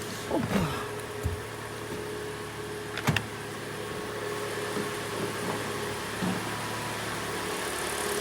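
Freshly rebuilt Kia Sportage G4NA four-cylinder petrol engine idling, heard from outside the car, running evenly and quietly. There is a sharp knock about three seconds in.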